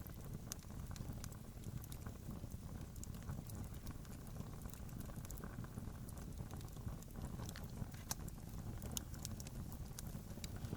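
Campfire crackling: irregular sharp snaps and pops scattered over a steady low rumble.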